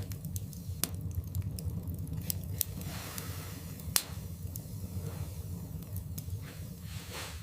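Wood fire burning in a fireplace: irregular sharp crackles and pops over a low steady rumble, with a louder pop about four seconds in.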